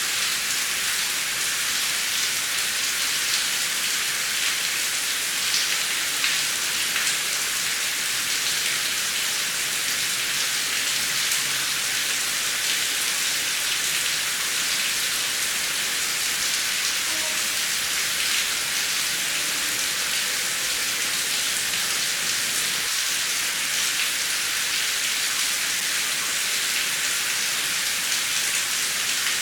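Heavy rain falling steadily: an even hiss with scattered drop ticks, and no thunder.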